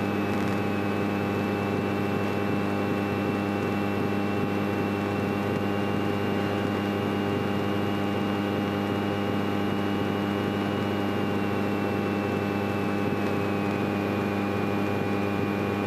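A Grumman light airplane's piston engine running steadily at taxi power, heard inside the cockpit as an even low drone with a thin high whine above it.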